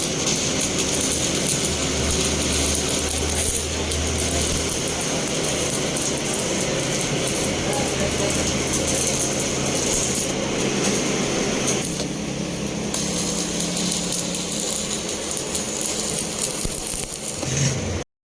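A machine running with a continuous rapid mechanical rattle and a steady high whine. The sound changes about twelve seconds in.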